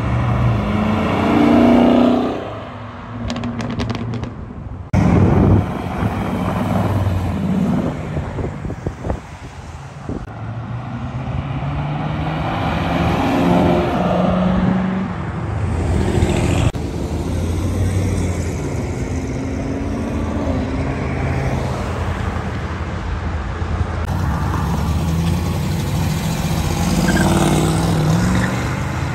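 Chevrolet Camaros, modern ones and a first-generation car, accelerating hard away one after another, the engine note climbing and dropping at each gear change. The sound cuts abruptly from one car to the next a few times.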